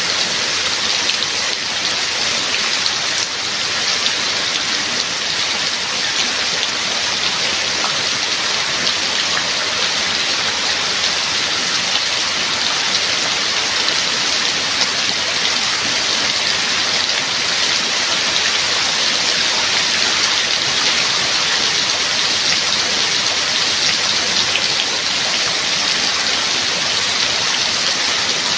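Heavy rain falling steadily, a dense even hiss of drops with fine patter on surfaces.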